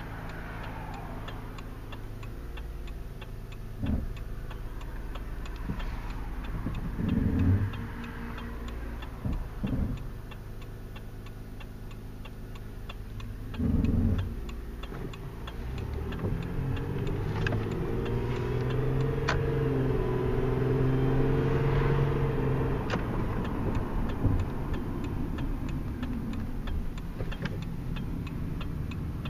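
A car engine running, then picking up speed with a rising hum a little past the middle. A faint steady ticking runs under it, and there are a few thumps in the first half.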